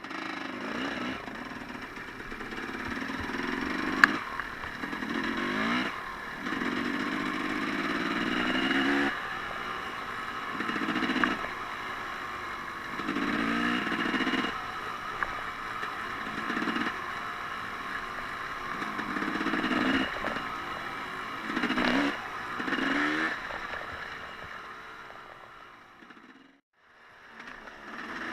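Off-road vehicle engine revving in repeated surges, pitch rising and falling with each throttle opening over a steady drone. There is a sharp knock about four seconds in and another about twenty-two seconds in, and the sound drops out briefly near the end.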